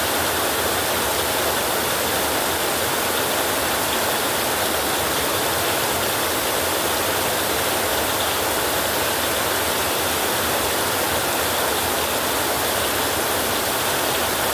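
Heavy rain falling steadily on a roof: an even, unbroken hiss with no thunder.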